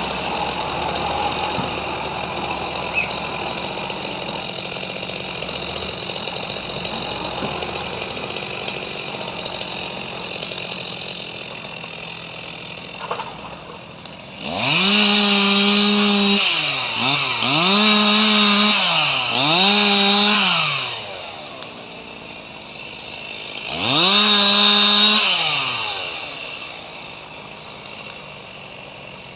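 A chainsaw is revved up to full speed, held there for a second or two and let drop back, about four times in the second half, with another rev starting at the very end. Before that, an engine runs steadily at idle and slowly grows quieter.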